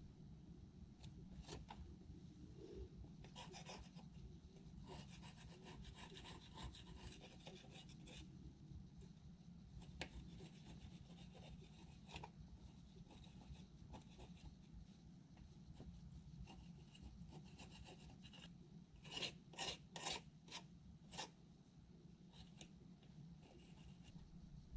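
Faint scraping and rubbing of hand work on cultivator parts, with scattered light clicks over a low steady hum. There is a longer spell of scraping a few seconds in and a handful of sharper strokes near the end.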